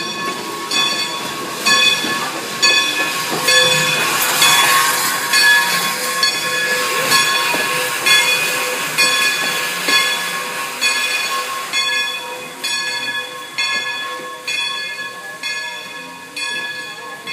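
Steam locomotive's bell ringing steadily, a stroke a little more than once a second, as the engine backs up to the train, with a burst of steam hiss about four seconds in. The bell fades slightly near the end.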